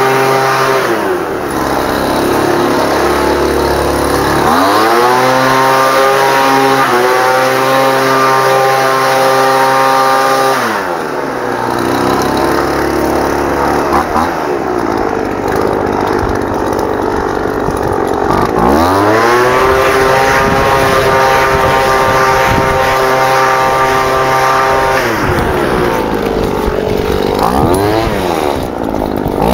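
Lawn mower engine running steadily at high speed, its pitch sagging down and climbing back up several times.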